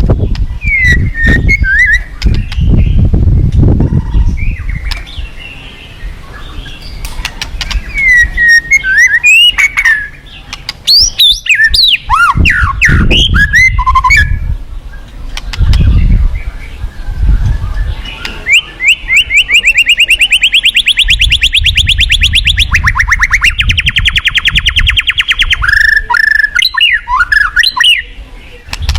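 White-rumped shama singing loud, varied phrases of clear whistles and quick pitch sweeps. From about 18 seconds in it gives a long, fast, even trill that lasts several seconds. A low rumbling noise comes and goes underneath.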